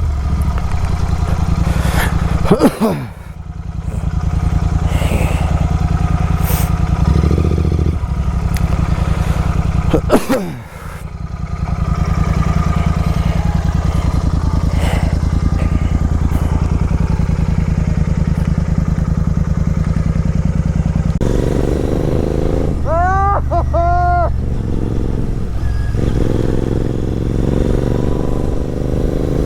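Superbike with a full-system exhaust running under way on the road, its engine note dropping and falling in pitch briefly twice, about three and ten seconds in, as the throttle is closed. Near the end a short run of wavering high tones sounds over the engine.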